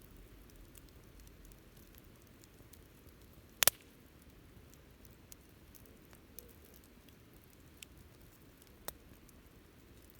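Wood bonfire crackling quietly, with many tiny ticks over a faint low rush, one sharp double pop about three and a half seconds in, and a few smaller pops later.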